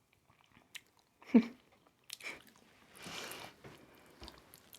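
Close-miked mouth sounds of a person chewing balut: soft wet clicks and smacks. A short loud vocal sound about a second in, and a brief noisy rush about three seconds in.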